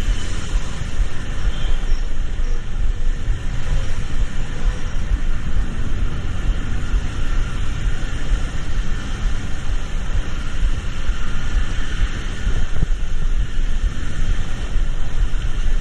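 Steady engine and road rumble heard from inside a moving vehicle's cab.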